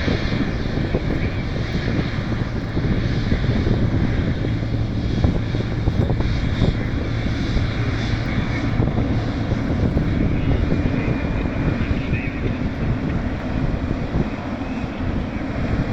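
Jet engine noise from a Boeing 777F freighter's two GE90 turbofans: a loud, steady, deep sound that eases a little near the end.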